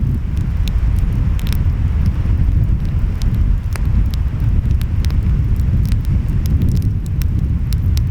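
Wood fire crackling, with scattered sharp pops and snaps, over a steady low rumble of ocean waves and wind.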